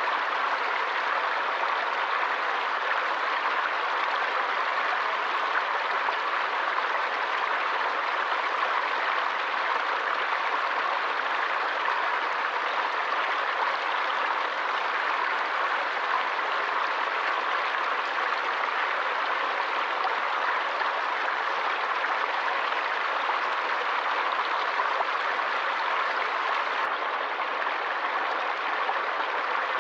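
Stream water flowing steadily, an even noise with no breaks or changes in level.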